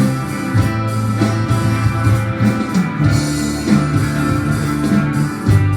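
Live band music with no singing, an instrumental bar between vocal lines: guitar, bass and drums keeping a steady beat.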